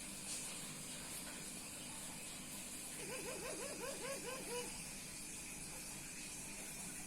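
A male Puter Pelung dove calling while courting a female: a quick run of about eight short rising-and-falling notes a few seconds in, lasting under two seconds, over a steady hiss.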